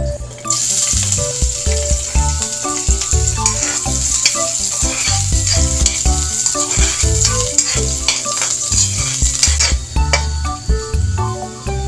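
Red onion and garlic sizzling in hot oil in a metal wok, stirred with a metal spatula that clicks and scrapes against the pan. The sizzle starts suddenly about half a second in as the aromatics go into the oil, and eases off a couple of seconds before the end.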